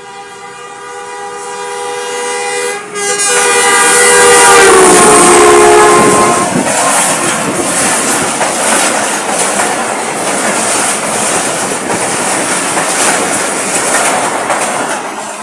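Awami Express passing at speed: the locomotive's horn sounds a long chord with one short break, its pitch dropping as the engine goes by, then the coaches rush past with a steady clatter of wheels on rail.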